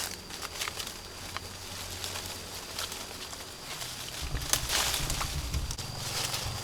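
Outdoor ambience: scattered small clicks and knocks over a thin, steady high-pitched tone, with a low rumble coming in about four seconds in.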